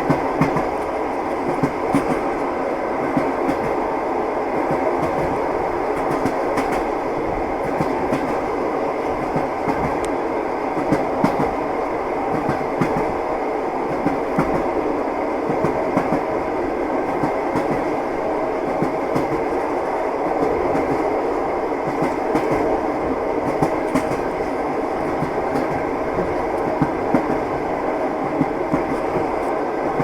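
Train wheels clattering on the rails: a steady rumble with frequent, irregular clicks and knocks.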